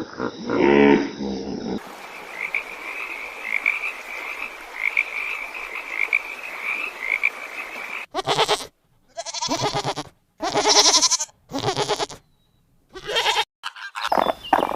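A run of different animal calls joined by abrupt cuts: first a steady high chirping over a hiss, then from about eight seconds a series of loud separate calls with silent gaps between them.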